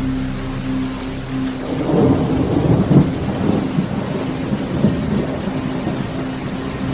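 Steady rain falling, with a roll of thunder that swells about two seconds in, is loudest around three seconds and rumbles away over the next couple of seconds.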